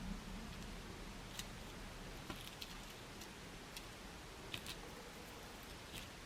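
Faint, irregular small clicks and taps from willow sticks and card stock being handled and placed on a craft surface, over a low room hiss.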